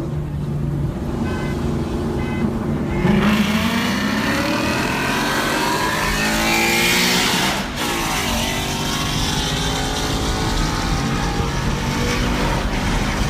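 A car engine revving up hard, its pitch climbing for about four seconds before it drops abruptly, then running on at a steadier, lower pitch.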